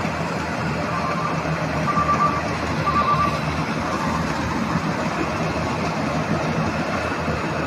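Rice combine harvester running steadily under load, a dense mechanical noise of engine and threshing gear. Near the start an alarm on the machine beeps briefly three times, about a second apart.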